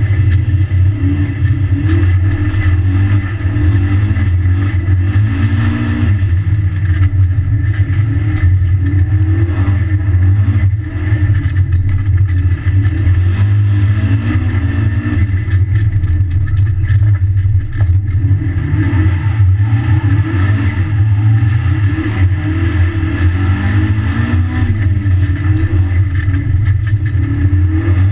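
Mitsubishi Lancer Evolution rally car's turbocharged four-cylinder engine heard from inside the cabin, driven hard on snow, its revs rising and falling again and again through gear changes and throttle lifts over a steady, loud low drone.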